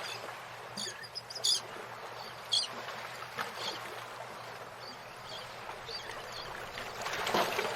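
Steady rush of running water, with short, high bird chirps over it, the loudest about one and a half and two and a half seconds in.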